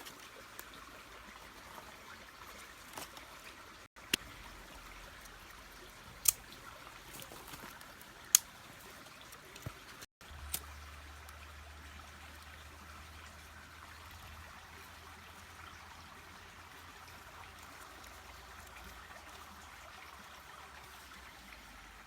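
Valley stream trickling steadily, with a few sharp clicks or knocks over it, the loudest about eight seconds in.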